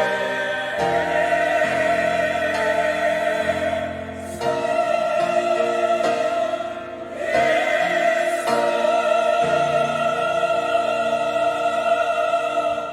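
Church choir singing the last phrases of a hymn anthem in sustained chords, with two short breaks for breath, then holding one long final chord.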